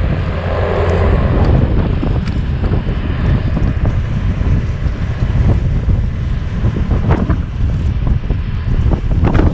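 Bobcat T595 compact track loader's diesel engine running steadily, with wind buffeting the microphone.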